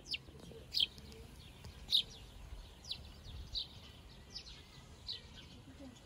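A small bird chirping repeatedly outdoors: short, high, falling chirps about every three quarters of a second, the loudest about two seconds in.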